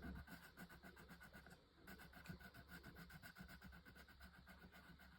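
Faint, rapid back-and-forth scratching of colouring strokes on a paper worksheet, with a brief pause about a second and a half in.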